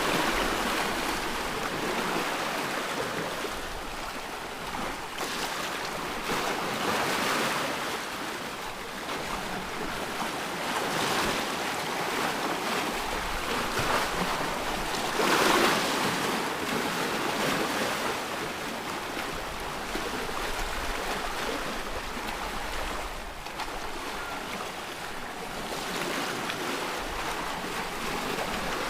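Ocean surf: waves breaking and washing in a continuous hiss that swells and eases every few seconds, with the biggest wave about halfway through.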